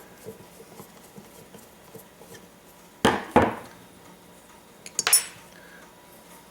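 Small metal parts and tools clinking and knocking on a workbench: light clicks, two sharp knocks about three seconds in, then a clink with a brief metallic ring about five seconds in.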